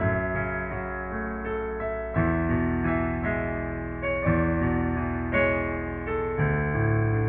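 Piano playing slow, sustained chords, a new chord struck about every two seconds with lighter notes in between.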